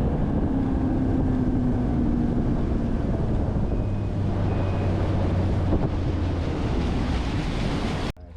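Boat motor running steadily under way, with wind rushing over the microphone and water noise from the hull. It starts and stops abruptly.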